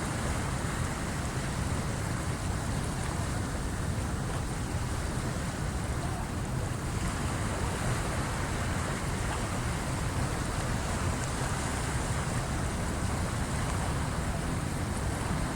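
Waves of the incoming tide washing in steadily, with wind on the microphone.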